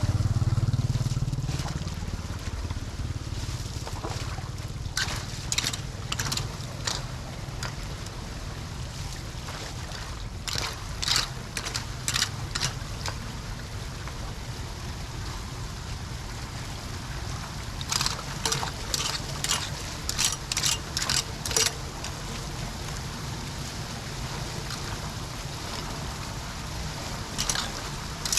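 Floodwater rushing steadily into a storm drain, broken four times by quick runs of sharp splashing or scraping sounds, likely debris being cleared from the drain.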